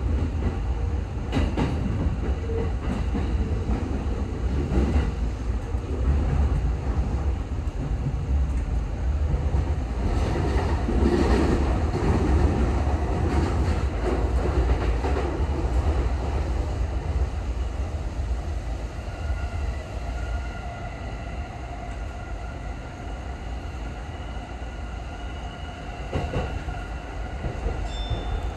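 Tokyo Waterfront Area Rapid Transit 70-000 series electric train running at speed, heard from on board: a steady low rumble with scattered clicks of the wheels over rail joints. About two-thirds through, a steady whine joins in and the running grows a little quieter.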